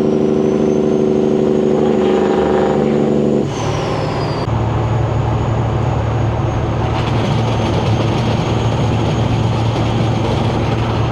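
Semi-truck diesel engine pulling under load with a loud steady drone and a high turbo whistle climbing in pitch. About three and a half seconds in, the drone breaks off and the whistle falls. The engine then settles into a lower, steadier run with an even whistle.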